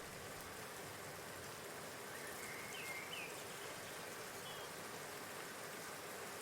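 Steady outdoor hiss with a few faint, short bird chirps, several about two to three seconds in and one more near four and a half seconds.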